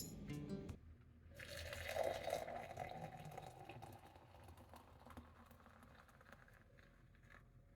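Faint sound of liquid being poured for about two and a half seconds, fading out.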